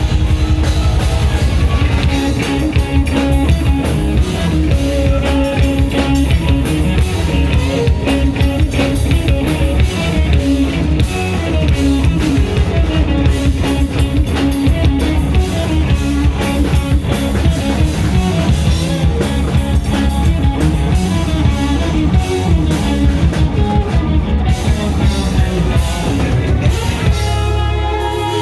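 Live rock band playing loudly and steadily, with drum kit, guitar and bass. The sound thins out near the end.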